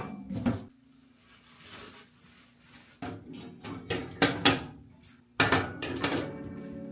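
A series of knocks and clatters, like household objects being set down or handled, with a held tone coming in about five and a half seconds in.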